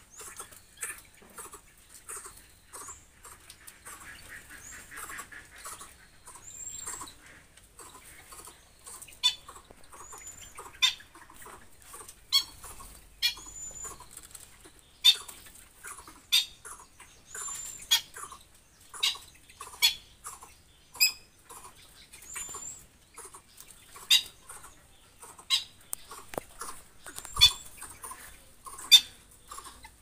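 Birds calling: faint chatter at first, then from about nine seconds in a run of sharp, short, high-pitched chirps repeated about once a second, some with a brief thin whistle. A single low knock near the end.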